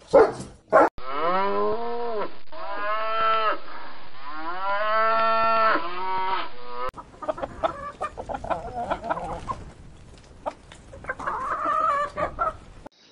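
Cattle mooing: two long moos, each rising and then falling in pitch. A little past halfway it switches to a flock of hens clucking, with many short clicks and a burst of clucking near the end. Two short loud sounds come right at the start.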